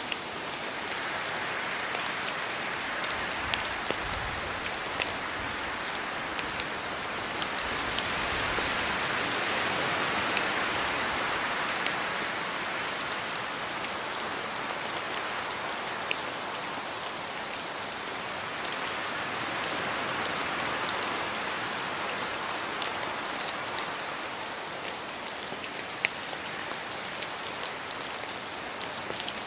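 Steady rain falling on a yard, with scattered sharp drops hitting close by; the downpour swells a little and eases again a couple of times.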